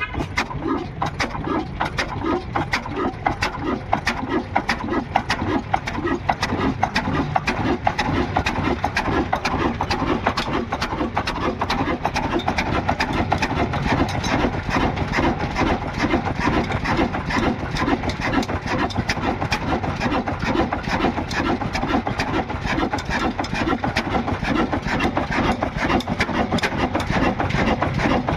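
Old diesel engine running steadily, with an even, rapid knocking beat.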